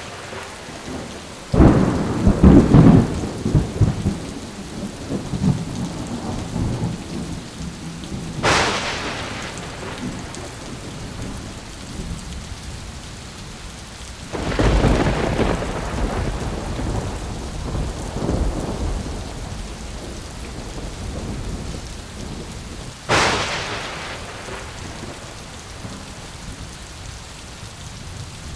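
Thunderstorm: steady rain with several thunderclaps. A loud crack about a second and a half in rolls into a long low rumble. A sharper crack comes near 8 seconds, another long rumble about halfway through, and a last crack near the end.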